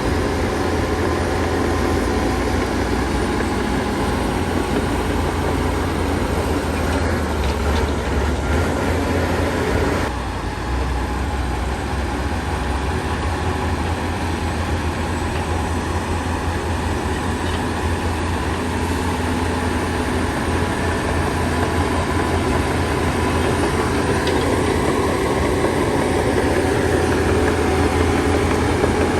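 Heavy diesel earthmoving machinery running steadily with a strong low engine rumble. The sound changes abruptly about ten seconds in.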